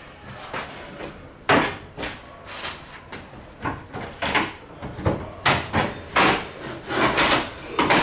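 A folding wooden bench in an old W-class tram being handled and folded: a series of about a dozen sharp wooden clunks and knocks, coming closer together towards the end.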